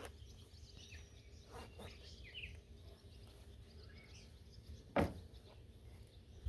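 Birds chirping over outdoor background noise, with one sharp knock about five seconds in.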